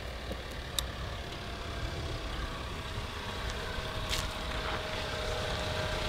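Lincoln MKZ's 2.0-litre turbocharged four-cylinder engine idling steadily just after an oil change, run briefly on fresh oil and a new filter to check the filter and drain plug for leaks. The idle grows slightly louder as the microphone goes under the car, and two sharp clicks come a few seconds apart.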